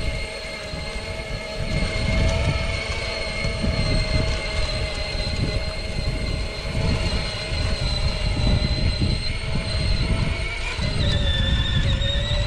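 Electric motors and gearbox of a battery-powered kids' ride-on tractor whining steadily under load as it pulls a small plow through dirt, with a low rumble underneath. The whine drops in pitch briefly near the end.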